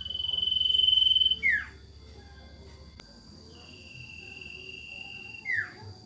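Owl known locally as burung sirtu calling twice, about three and a half seconds apart: each call is a long, level whistle ending in a short note that slides quickly downward. The first call is the louder. A faint, steady, high insect-like tone runs underneath.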